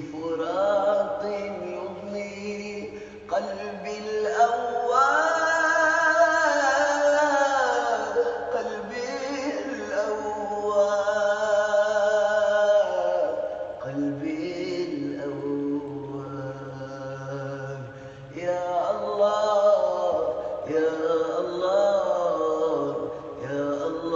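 Male voices chanting a drawn-out melodic passage of an Arabic devotional nasheed: long held notes that waver and glide up and down, several vocal lines layered over a low sustained drone.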